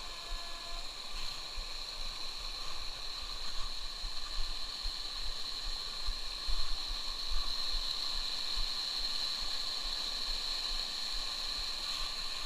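Steady rush of flowing stream water, with a constant high-pitched tone held over it.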